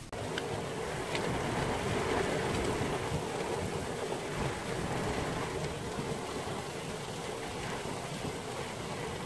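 Heavy rain falling steadily, a dense even hiss with a couple of sharp drop clicks in the first second or so.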